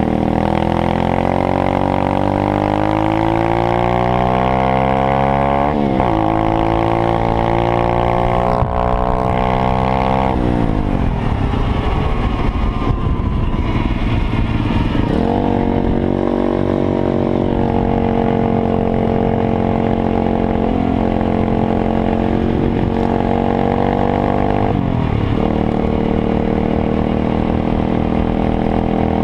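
A small motorbike engine being ridden. It climbs steadily in pitch as it accelerates, with a brief dip about six seconds in. It falls off around ten seconds and then runs at a steady speed, with a couple of short dips later on.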